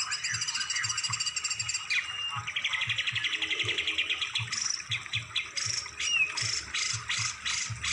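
Songbird singing, played as masteran training song: fast, rattling high trills, then from about halfway a series of sharp, loud chips roughly two a second.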